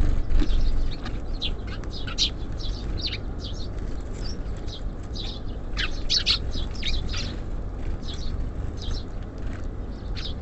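Small songbirds chirping: many short, high calls following one another quickly and overlapping, over a steady low rumble.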